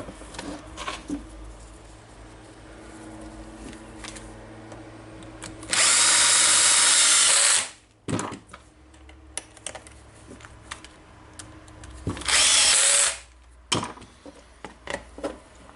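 A handheld power drill or driver runs in two bursts, the first about two seconds long and the second about a second, with small clicks and knocks of handling parts in between.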